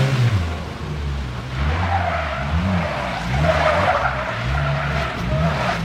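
Car engine revving up and down over and over while its tyres squeal, with a loud screech from about two seconds in to near the end.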